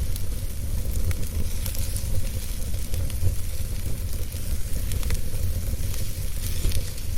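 Wood fire burning in a fireplace: a steady low rumble and hiss with scattered small crackles and pops.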